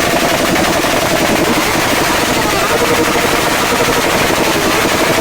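Motorcycle engines running loud and steady, with a rapid stream of firing pulses.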